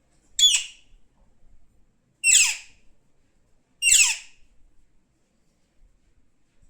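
Pet parrot squawking three times, harsh screeches each about half a second long and dropping in pitch at the end, spaced roughly a second and a half apart.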